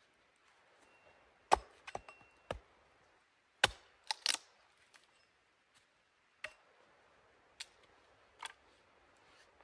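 A series of sharp, irregular knocks and cracks, about nine in all, the loudest ones in the first half.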